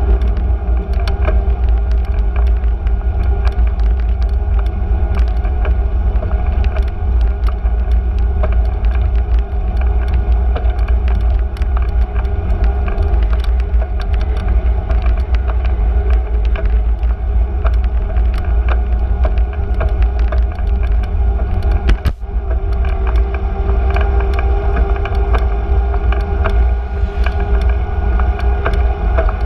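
Steady noise of a bicycle ride on city streets: deep wind rumble on the microphone, a continuous hum, and many small rattles and ticks, with a brief dip about two-thirds of the way through.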